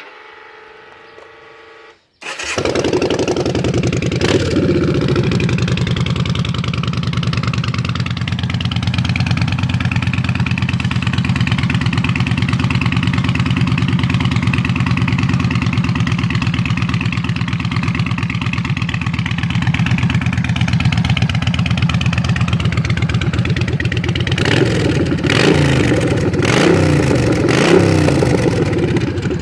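2014 Yamaha Bolt R-Spec's air-cooled V-twin, fitted with a Bassani Street Sweeper radial exhaust, starting about two seconds in and settling into a loud idle. It is revved briefly soon after catching, then blipped several times near the end.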